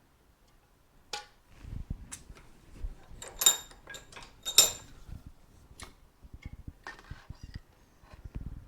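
Clicks and knocks of hand tools on the metal parts of a Suzuki TS250 motorcycle front fork during disassembly, with two sharp, ringing metallic clinks a little before the middle.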